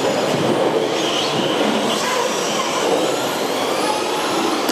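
Several radio-controlled short course and stadium trucks racing together: a dense, steady whir of motors and drivetrains, with faint whines rising and falling as they speed up and slow down.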